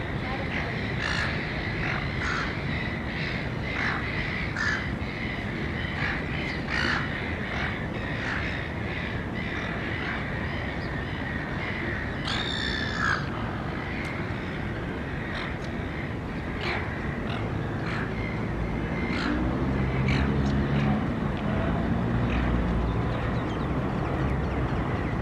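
Harsh calls from feeding gulls and common mynas, repeating about once a second over steady street background noise, with one longer call about halfway through. A low hum swells in the last few seconds.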